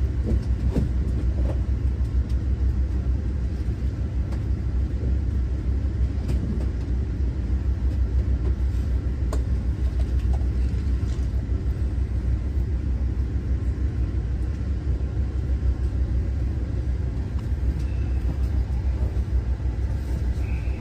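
Steady low rumble of an Amtrak passenger train running, heard from inside the coach, with a few faint scattered clicks.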